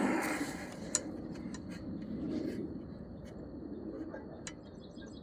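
Rustling and scraping of packed grass clippings being pulled by hand out of a clogged Grasshopper mower's bagging tube, with a short burst of handling noise at the start and a few light clicks.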